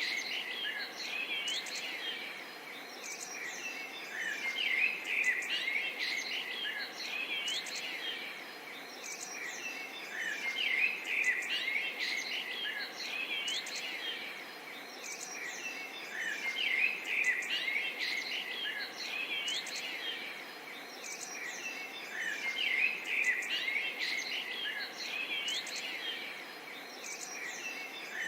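Small songbirds chirping and singing together in a busy, overlapping chorus of short high notes and quick glides, swelling and easing off every few seconds over a faint, even background hiss.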